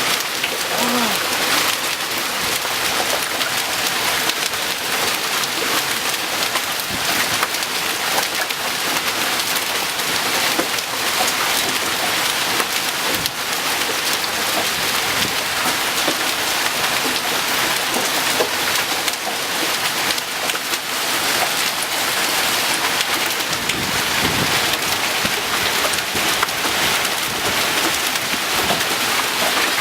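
Hail and heavy rain falling hard: a dense, steady clatter of countless small impacts.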